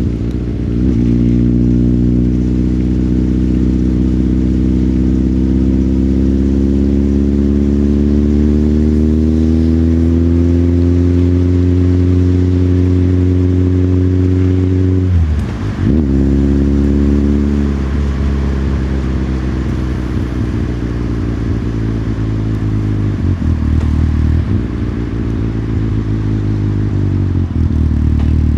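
Motorcycle engine under way. Its pitch climbs slowly for about fifteen seconds, then breaks off briefly about halfway. After that the pitch falls and the engine runs lower, with a few shifts in throttle near the end.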